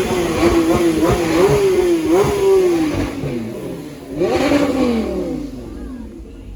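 A supercar's engine revving: the revs climb, hold high with a few quick blips for about three seconds, then fall away. A second, shorter rev rises and falls about four seconds in.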